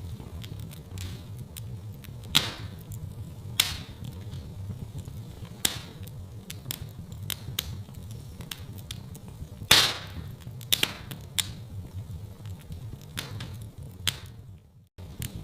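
Wood fire crackling in a fireplace: a steady low rumble of burning with sharp pops every second or two, about eight in all, the loudest about two-thirds through. The sound briefly drops out just before the end.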